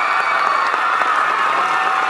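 Audience applauding and cheering, with long high-pitched screams held over the clapping.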